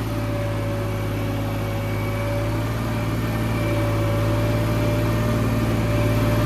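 New Holland 3630 tractor's three-cylinder diesel engine running steadily under load, with a constant pitch and a slow rise in loudness.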